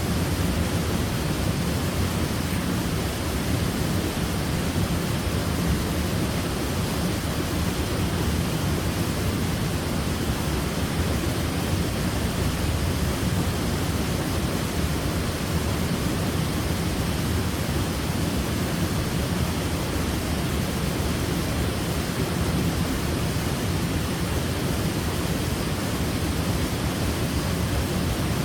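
Waterfall: a steady, unbroken rush of falling water, heaviest in the low end, with no separate splashes or other events.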